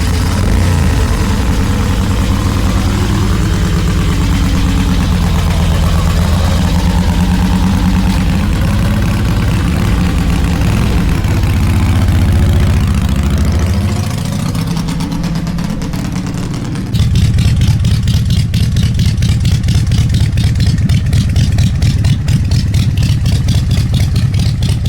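Kick-started motorcycle engine running just after firing, its speed wavering and rising in blips of throttle. About 17 seconds in the sound cuts abruptly to a steadier, louder motorcycle engine drone with fast regular pulsing.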